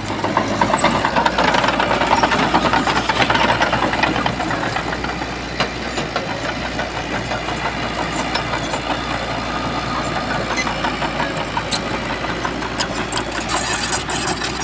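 Diesel engine of a Shantui bulldozer running hard and steadily, louder in the first few seconds, with a few sharp clanks later on.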